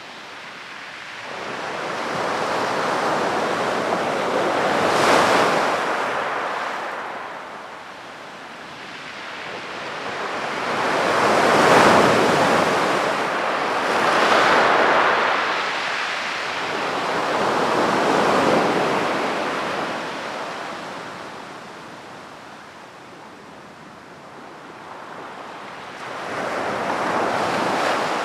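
Sea waves breaking and washing onto a beach, the surf swelling and fading in slow surges every few seconds, loudest about twelve seconds in.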